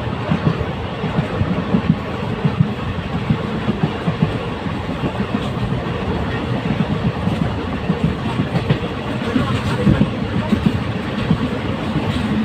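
Passenger train running at speed, heard from inside a coach: a steady rumble of wheels on rail with dense, irregular clatter and rattling.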